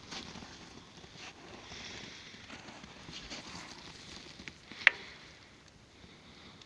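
Wood fire burning with a light crackle of scattered small snaps, and one sharp loud pop about five seconds in.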